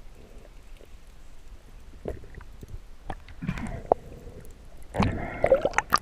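Muffled water sounds around a camera in the sea: sloshing and gurgling with scattered clicks, loudest in two spells, the longer one near the end.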